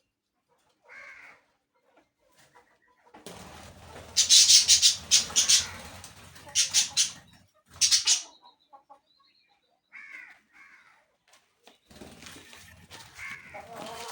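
Birds calling in short squawks, with a loud flurry of wing flapping from about three to eight seconds in.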